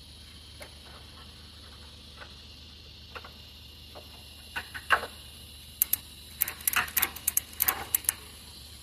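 Sharp clicks and clatters over a faint steady hum. They come one at a time every second or so at first, then in a quick, dense run over the last few seconds.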